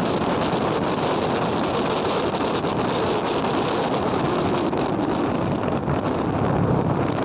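Steady rushing noise outdoors, with wind buffeting the microphone.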